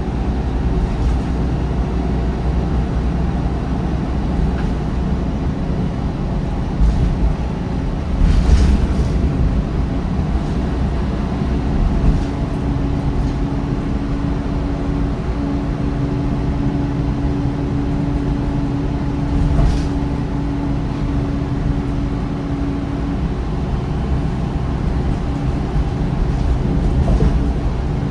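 Bus diesel engine (MAN D1556LOH) and ZF Ecolife six-speed automatic gearbox running under way: a steady low drone with a few brief swells in level. A steady whine comes in about twelve seconds in and fades out about eleven seconds later.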